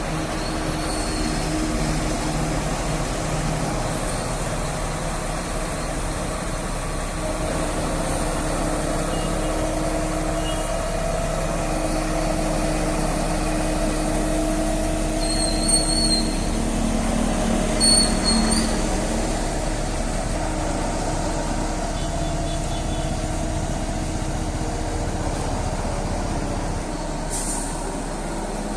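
A mobile crane's diesel engine running steadily, its pitch shifting as it works. Two short high-pitched squeals about halfway through, and a brief hiss near the end.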